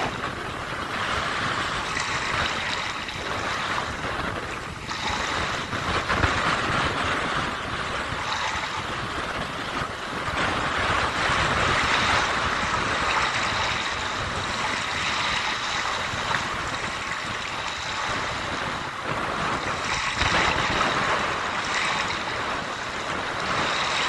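Sea waves washing onto the shore in the wind: a continuous rushing that rises and falls in loudness every few seconds.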